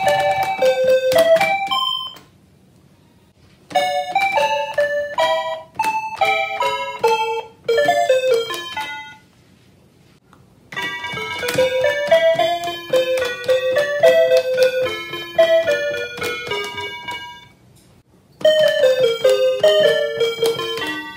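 Melody-playing electronic calculators sounding Kansai railway station departure and approach melodies in electronic beep-like tones. Several short tunes follow one another, with pauses of a second or two between them.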